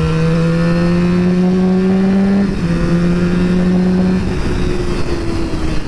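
Honda 400 road motorcycle's engine pulling under acceleration, its pitch climbing steadily, then dropping at an upshift about two and a half seconds in and falling off near the end as the throttle eases, with wind rushing over the helmet microphone.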